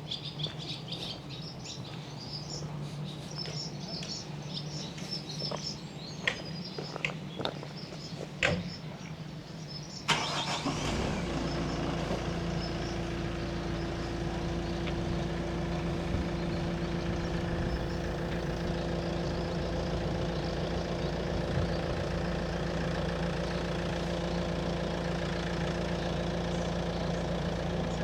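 Birds chirping with a few sharp clicks for the first ten seconds. Then an engine starts abruptly and runs steadily at idle as a low, even drone.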